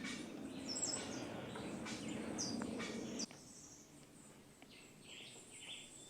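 Small birds chirping, with short, high calls scattered throughout. Under them runs a low rushing noise that cuts off suddenly about three seconds in.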